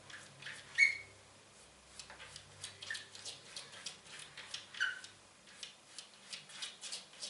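Three short, high chirping animal calls about two seconds apart, the first the loudest, over a run of light clicks and taps.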